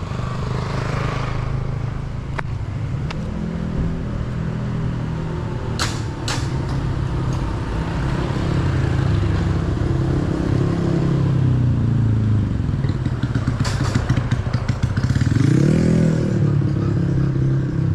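Motor vehicle engines running close by, one falling in pitch about eleven seconds in and another revving up and back down near the end, with a couple of sharp clicks about six seconds in.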